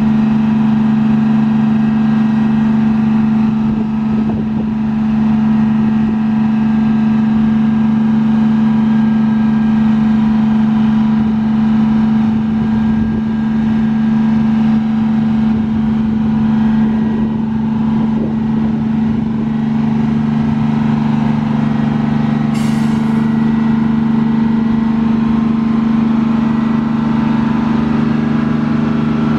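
Detroit Diesel 6V92TA two-stroke V6 diesel in a transit bus, running at a steady speed. A short air hiss from the bus's air system comes about three-quarters of the way through.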